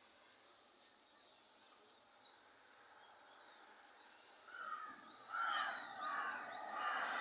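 Insects trilling faintly in the background, then a bird calling loudly three or four times in quick succession from about two-thirds of the way in.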